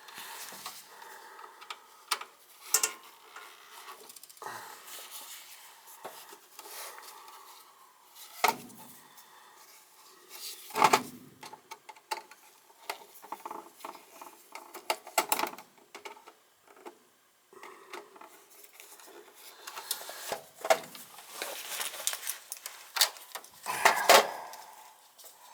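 Small tools and wiring being handled: scattered clicks, taps and rubbing, with sharper knocks about eleven seconds in and again near the end.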